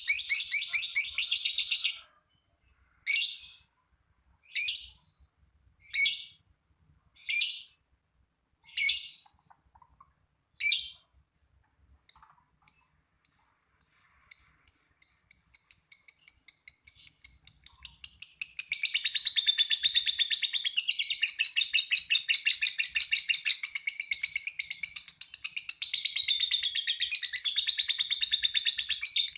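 Lovebird singing its long 'ngekek' chatter: a short burst, then separate high calls about every second and a half that speed up into an unbroken trill, turning into dense, loud chattering for the last ten seconds.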